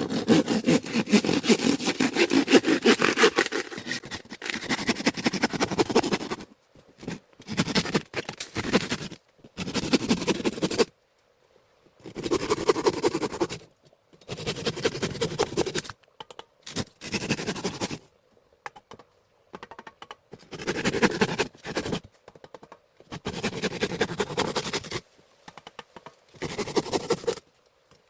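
Repeated bursts of scraping, each lasting one to three seconds, with sudden stops between them.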